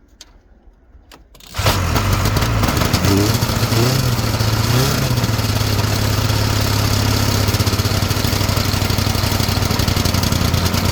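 1971 Ski-Doo Olympic snowmobile's two-stroke engine starting about a second and a half in and then running steadily on its freshly cleaned carburetor.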